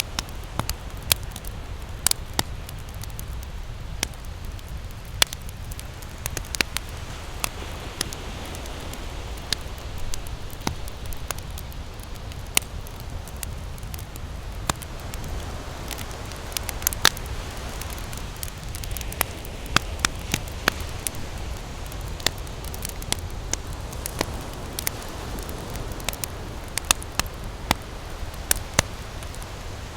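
Wood campfire crackling, with irregular sharp pops every second or so, over a steady low rumble of ocean surf.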